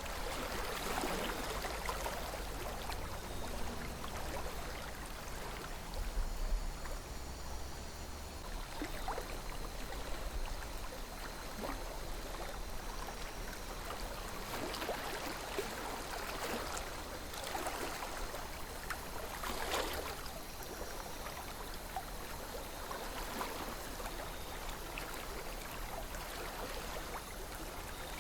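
A river flowing steadily, water babbling and trickling with small irregular splashes.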